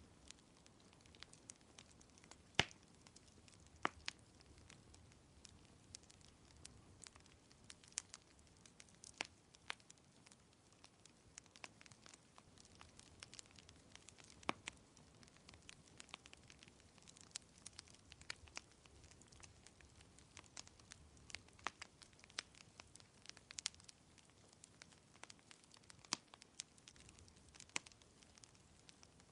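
Wood fire crackling softly: irregular small snaps and pops, with one sharper pop about two and a half seconds in, over a faint steady hiss.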